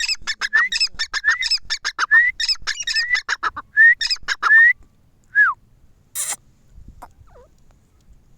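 Teetar (francolin) calling: a fast run of loud, short, ringing notes, many of them rising, for about four and a half seconds, then one falling note. A brief sharp noise follows about six seconds in.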